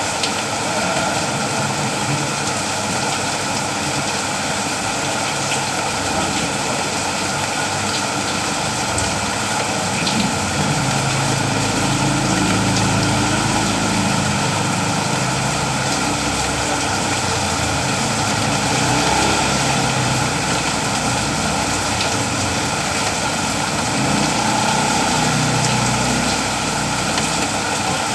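Steady rain falling, an even hiss. A low rumble swells in about ten seconds in and again near the end.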